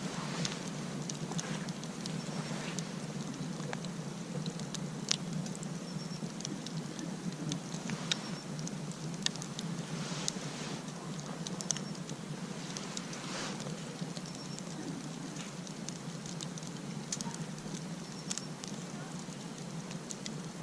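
Wood campfire crackling, with irregular sharp snaps and pops over a steady low rushing background.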